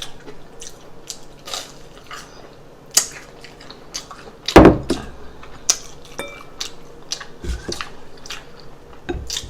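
Close-miked eating: chewing with scattered clicks and clinks of cutlery against dishes, and one loud thump about four and a half seconds in.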